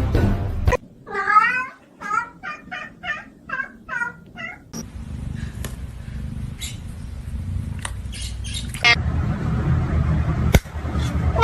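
A cat meowing: one longer meow, then a quick run of about seven short meows. After that comes a low rumbling noise with a few clicks.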